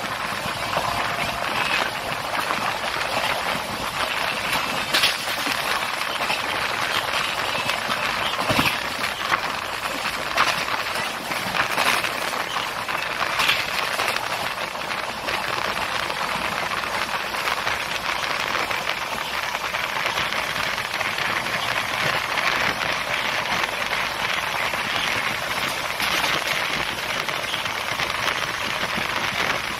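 Passenger train running, heard from inside the coach: a steady roar of wheels on rails and rushing air, with a few scattered knocks and rattles.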